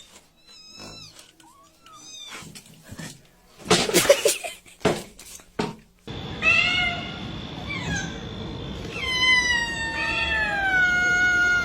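Cats meowing: short, faint mews at first, then drawn-out meows, the last a long yowl that falls slowly in pitch. Two louder knocks come about four and five seconds in.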